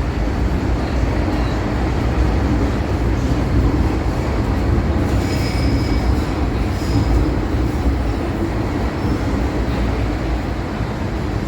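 MTR M-Train electric multiple unit running between stations: a steady rumble of wheels on rail and traction equipment, with a faint high wheel squeal about five to seven seconds in.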